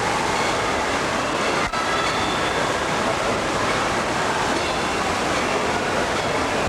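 Steady rushing of falling and splashing water with the echoing din of an indoor water park.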